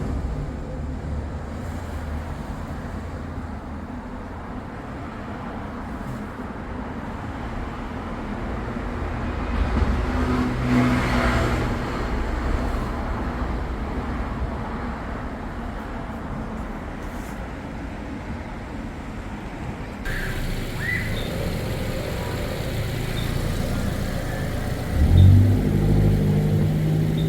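A Hyundai LF Sonata's LPG engine running steadily with the air conditioning being recharged with refrigerant gas. The engine sound swells briefly about ten seconds in, and more loudly near the end.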